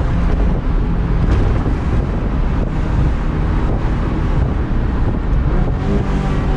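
Ferrari F355 GTS's V8 with a Tubi exhaust running under way, heard from the open-top cabin with heavy wind buffeting on the microphone.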